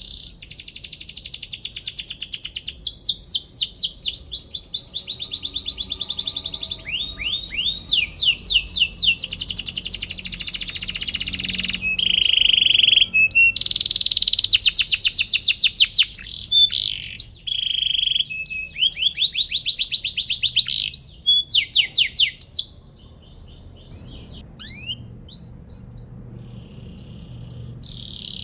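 Domestic canary singing a long, loud song of rapid repeated trills and chirps, phrase after phrase. About 23 seconds in it drops to softer, scattered chirps.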